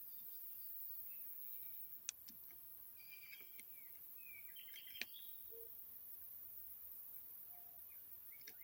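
Small songbirds chirping in short, quick phrases over a steady high hiss, with two sharp clicks about two and five seconds in.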